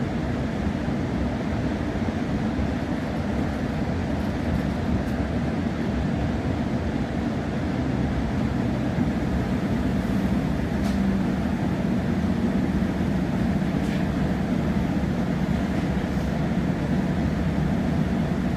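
Steady running noise of a moving passenger train heard from inside the carriage: a continuous low rumble of wheels on track with a constant hum.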